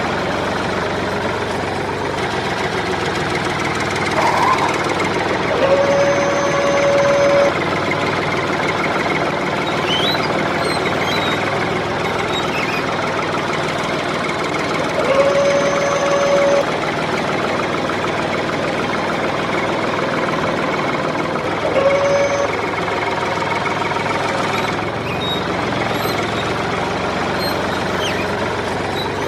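Small motor of a DIY model tractor running steadily with a dense rattling buzz. Three short steady tones sound over it, about 6, 15 and 22 seconds in.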